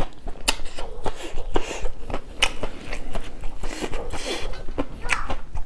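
Close-miked chewing of raw leafy salad: irregular crunches with wet mouth clicks and smacks.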